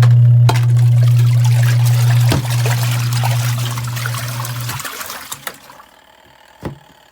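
Auertech twin tub portable washing machine running: a steady motor hum with water trickling and splashing. The motor cuts off about five seconds in and the water sound dies away, leaving one click near the end.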